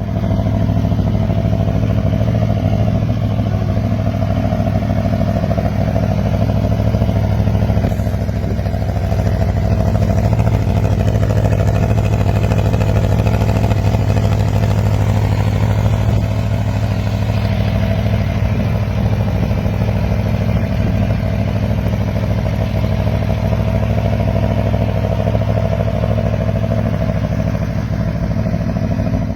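Aprilia RSV4's V4 engine idling steadily through an aftermarket SC-Project exhaust.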